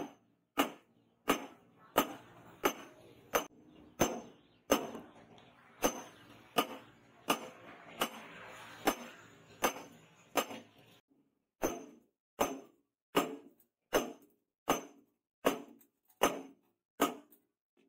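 Hammer forging steel on an anvil: evenly spaced ringing blows, about one and a half a second, with a steady hiss under the strikes through the middle of the stretch.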